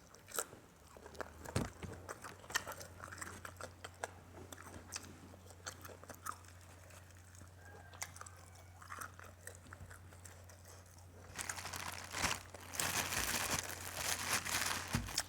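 A person chewing and crunching food close to the microphone, with scattered small clicks and smacks; about eleven seconds in, a denser, crackly stretch of crunching takes over for a few seconds.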